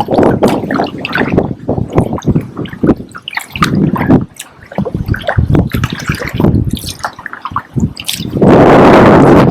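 Kayak paddle blades dipping and splashing, water dripping and trickling off the blades in short irregular splashes. Near the end, wind buffets the microphone with a loud rushing noise.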